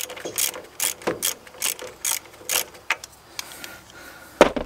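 Ratchet wrench clicking in short back-strokes as a 7/16 bolt is worked loose, about two to three clicks a second for the first three seconds. A single loud knock comes near the end.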